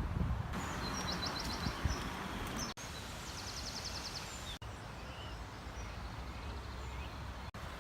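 Small birds singing short, rapid high trills, twice, over a steady low outdoor background noise.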